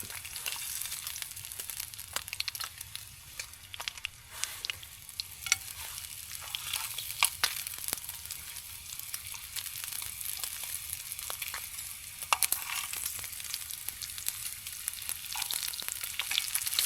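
Bacon sizzling in a frying pan, a steady hiss broken by frequent sharp pops and spatters of fat, the bacon nearly done.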